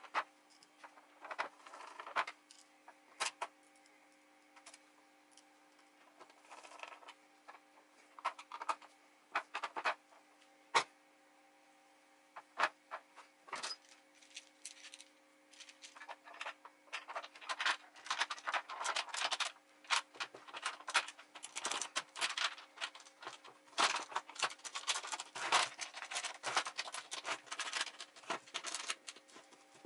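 Hands reassembling an Alesis electronic drum pad: scattered clicks and knocks of plastic parts and screws being fitted, then from about halfway a dense run of scratchy clicking, over a faint steady hum.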